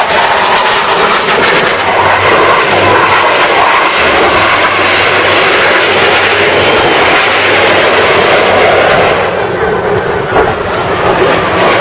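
Military jet aircraft flying past, a loud, steady rushing engine noise whose higher part fades about nine seconds in as it moves away.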